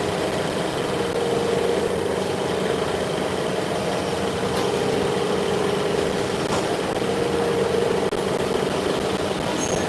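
Steady machine hum with a constant mid-pitched tone, a fainter high whine and a couple of faint ticks.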